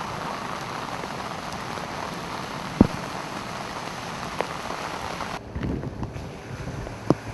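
Steady hiss of rain on flooded pavement and running floodwater, with a sharp knock a little under three seconds in. About five and a half seconds in it cuts to a quieter, duller rain hiss with the low hum of a car approaching through the flooded street.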